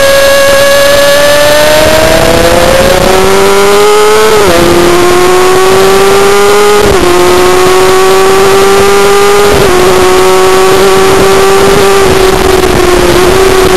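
Racing motorcycle engine, heard onboard, under hard acceleration out of a corner and pulling up through the gears. Its pitch climbs slowly, then drops suddenly at three upshifts, about four and a half, seven and nine and a half seconds in.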